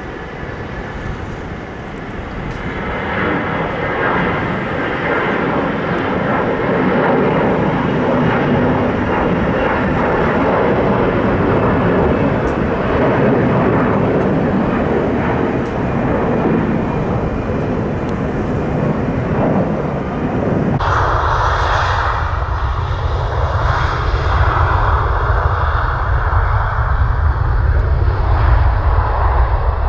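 Airliner jet engines roaring as a plane passes on the runway, building over the first few seconds. About 21 s in the sound changes abruptly to a deeper, heavier rumble.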